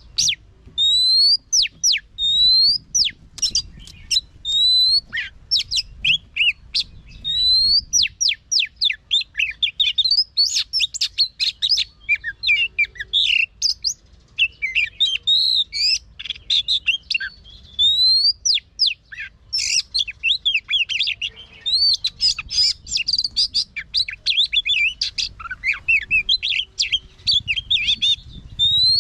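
Oriental magpie-robin singing. For the first several seconds a rising whistled note repeats about once a second; then comes a fast, dense run of varied whistles and trills.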